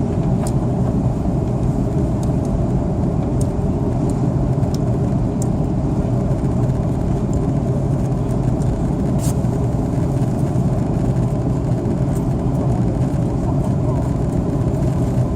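Steady low rumble of cabin noise inside an Airbus A330-300 in flight, engines and airflow, holding an even level with a few faint clicks.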